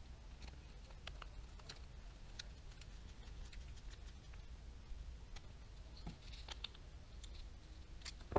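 Faint, scattered light clicks and taps of small baitcasting-reel parts and tools being handled on a bench, over a low steady hum, with a louder knock at the very end.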